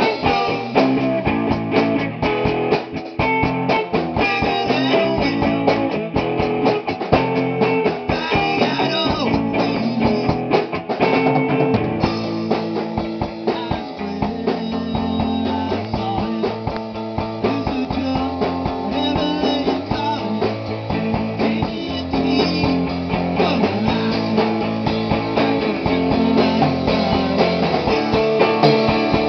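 Rock band playing live at rehearsal, mostly guitar with drums, no singing. About twelve seconds in, the rapid strummed strokes give way to longer held notes.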